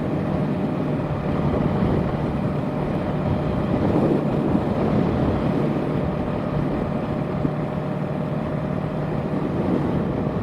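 Yamaha parallel-twin sport bike cruising at a steady speed, its engine hum under a rush of wind noise from a strong wind.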